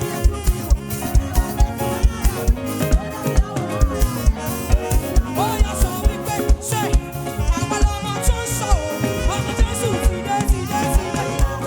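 Live praise band playing upbeat African gospel music, with a steady, driving drum beat under bass and keyboard or guitar lines.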